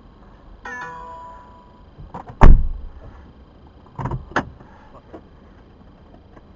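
A car door slamming shut with one loud thump about two and a half seconds in, then two lighter knocks a second and a half later. Near the start a brief electronic chime sounds.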